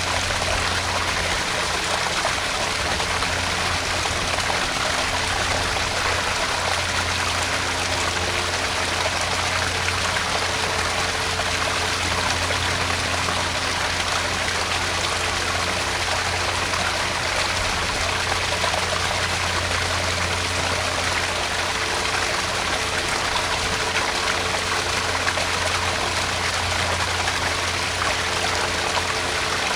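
Garden pond waterfall: water splashing and trickling steadily into the pond, with a steady low hum underneath.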